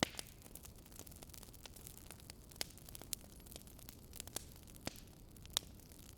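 Wood fire crackling: irregular sharp pops and snaps over a low steady hiss.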